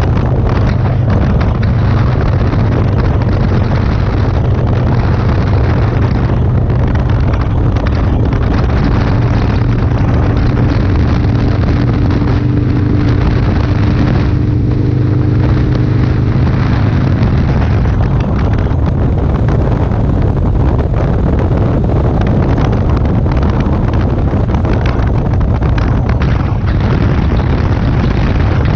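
Motorcycle running at road speed with heavy wind buffeting on the microphone, a loud steady rumble with rough crackling gusts; a steady engine note rises out of it in the middle.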